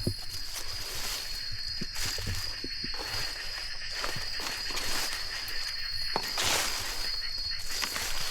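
Footsteps and rustling in forest undergrowth with scattered light knocks and clicks, over a steady high-pitched insect drone.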